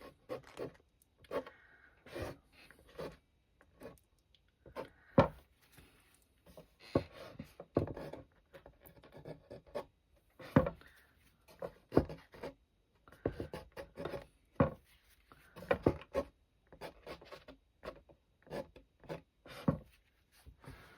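Palette knife scraping wet watercolour paint across paper to make rock texture: short, irregular scrapes and light taps, several a second at times, with pauses between.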